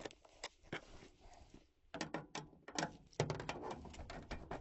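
Irregular metal clicks and knocks of a hand tool and loosened parts as a fastener is worked free on a gas furnace, coming closer together about two seconds in, with a low rustle of handling near the end.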